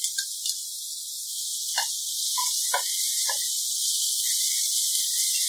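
Chopped onions and green chillies sizzling in hot oil in a steel kadhai, a steady high hiss. A spatula scrapes and knocks against the pan a few times between about two and three and a half seconds in as the chillies are stirred in.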